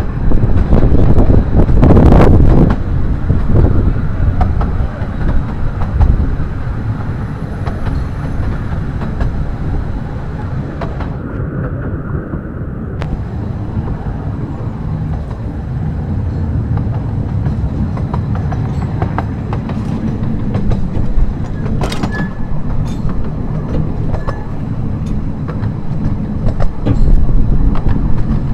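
A 15-inch-gauge Ravenglass and Eskdale Railway train running along the track: a steady rumble of wheels on rail, loudest in the first three seconds, with a few sharp clicks about 22 seconds in.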